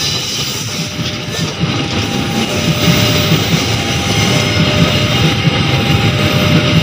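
Passenger train carriages passing close by on the rails, a steady rumble of steel wheels on track.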